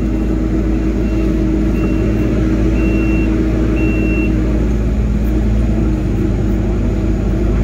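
Heavy-equipment diesel engine running steadily, heard loud from the machine, with a steady whine over it that stops about four and a half seconds in. Four short high beeps about a second apart sound in the first half.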